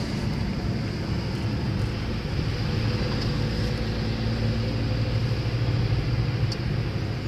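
Steady engine and road noise of a moving car, heard from inside the cabin as a low, even drone.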